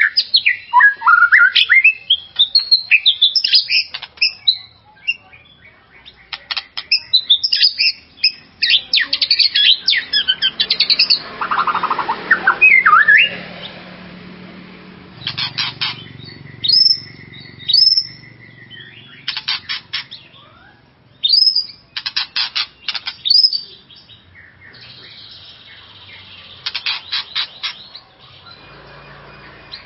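White-rumped shama singing a loud, varied song: whistled phrases that glide up and down, broken by runs of fast repeated notes. It is the kind of song used as a lure to rouse caged shamas.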